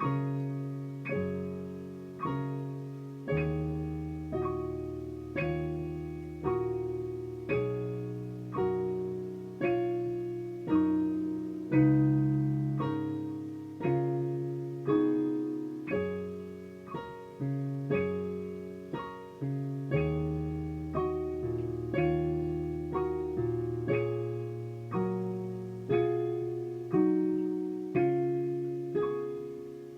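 Piano playing a simple beginner's piece: a student part on two-black-key patterns with an accompaniment, including low bass notes. Notes and chords are struck at a steady pace of about one a second, each ringing and fading before the next.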